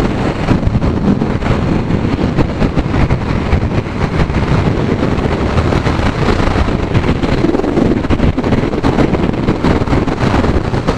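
Heavy wind buffeting the microphone on a motorcycle at speed, with engine and road noise underneath, steady throughout.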